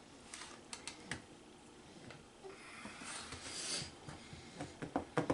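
Small plastic clicks and taps of a spoon against a plastic pudding cup, with a brief rustling hiss about halfway through.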